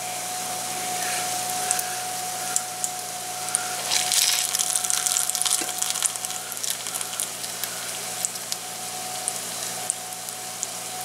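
Breaded chicken-fried steak frying in shallow oil in a cast iron skillet: a steady sizzle full of small pops and crackles. It swells louder about four seconds in, as a probe thermometer's fork is pushed into the meat. A steady whine sits behind it.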